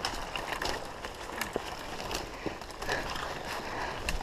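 Crunching and rustling of a player moving over rough ground, with scattered sharp clicks and one loud snap at the very end.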